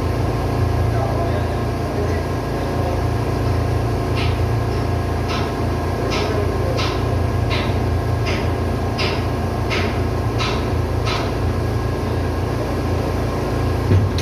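A ship's auxiliary diesel engine, a small Caterpillar, running steadily with a loud, deep hum. In the middle comes a run of about eleven sharp ticks, evenly spaced a little under a second apart.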